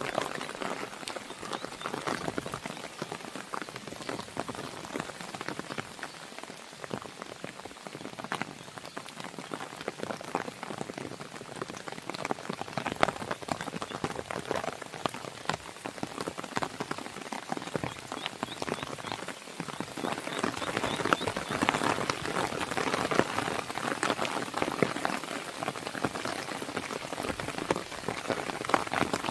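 Steady rain falling against a window, mixed with the sharp crackle of a wood fire. The rain grows louder about two-thirds of the way through.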